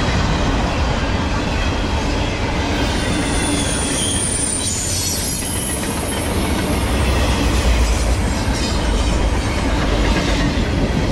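A long train of empty intermodal double-stack well cars rolls steadily past, making a continuous rumble and rattle of steel wheels on rail. A thin, high wheel squeal rises above it from about three to six seconds in.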